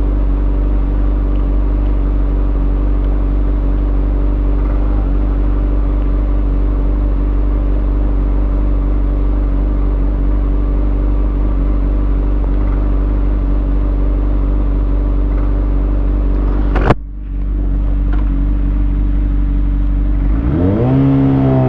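Kawasaki Ninja ZX6R inline-four, fitted with a Lextek SP7C carbon exhaust and decat headers, running at a steady engine speed. About seventeen seconds in there is a sharp click, and near the end the engine revs rise as the bike pulls away.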